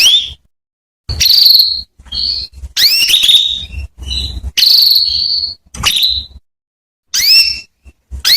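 Female canary calling: a string of short, sharp, rising chirps, with a couple of longer held whistled notes in the middle, spaced by brief silences.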